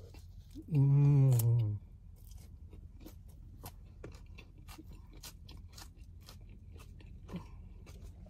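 A person chewing a mouthful of crunchy hard-shell taco, a long run of small crisp crunches and clicks. About a second in, a loud hum falls in pitch over about a second.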